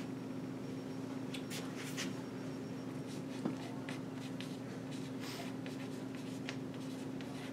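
Writing on a board: short scratchy strokes in clusters, over a steady low room hum, with one small knock about halfway through.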